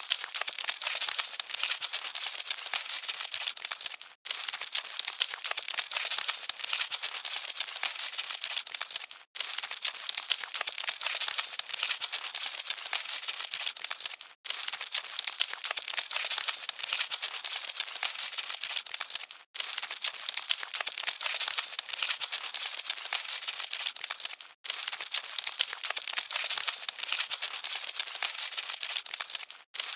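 Cockroaches scuttling: a dense, rapid crackling and rustling, high in pitch. It is a short recording looped about every five seconds, with a brief silent gap at each join.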